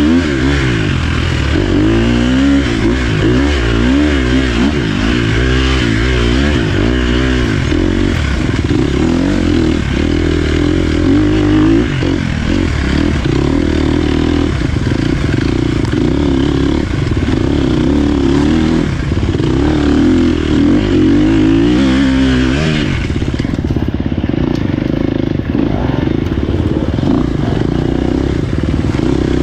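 Dirt bike engine running hard on an off-road trail, its pitch repeatedly rising and falling as the throttle is opened and closed through the ride.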